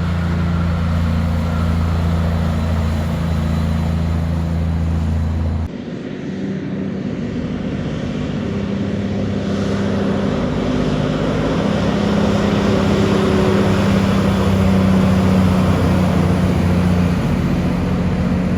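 Heavy diesel truck engine running with a steady low drone. About six seconds in the sound changes abruptly to a different engine note that gradually grows louder, its pitch shifting a few times.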